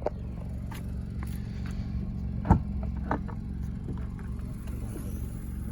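Nissan Rogue's 2.5 L four-cylinder engine idling with a steady low hum, with a few knocks and clicks over it, the loudest about two and a half seconds in.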